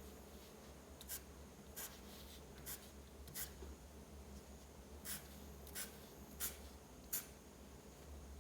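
Drawing strokes on paper: about eight short, scratchy strokes of a pen or marker, spaced unevenly, over a faint steady low hum.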